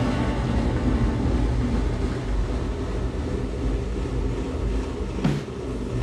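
Low steady rumble of an electric passenger train, with a single knock about five seconds in.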